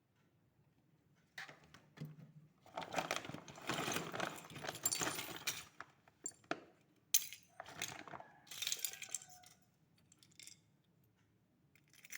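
Small metal objects clinking and rattling in irregular bursts, with a couple of sharp clicks about halfway through.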